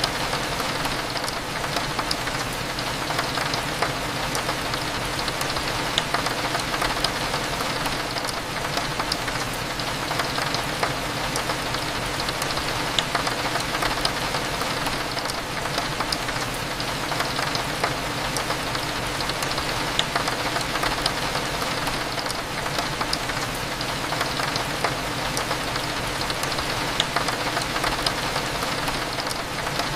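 Steady rain with scattered drops tapping, over a low constant hum of cafe ambience.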